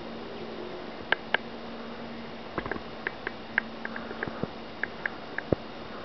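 Small birds giving short, high chirps, about a dozen scattered irregularly, with a few sharp clicks among them.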